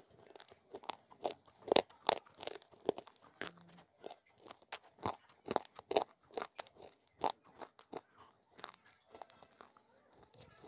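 Chewing of baked edible clay (Punjabi mitti) and slate pencil pieces right at a lapel microphone: irregular crunches, coming thick and fast through the first seven seconds and thinning out toward the end.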